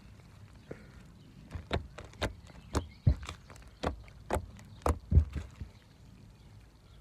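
Hands squeezing and poking a crunchy beaded slime, making a run of sharp clicks and pops, two to three a second, from about one and a half seconds in until nearly six seconds.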